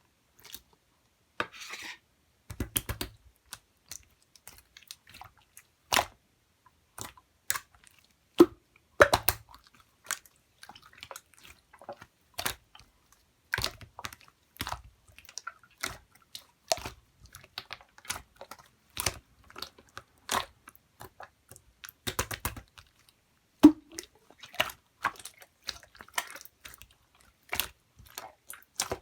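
Marbled pearl slime being pressed and stretched by hand: irregular sticky clicks and small pops, with a few louder pops among them.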